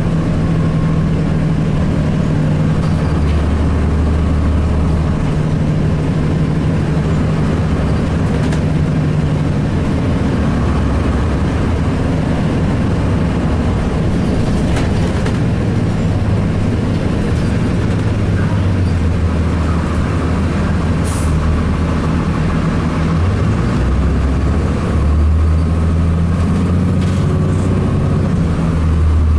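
Cummins ISC diesel engine of a 2002 Blue Bird CS bus running while the bus drives. The engine note stays loud and steady, with its pitch stepping up and down several times.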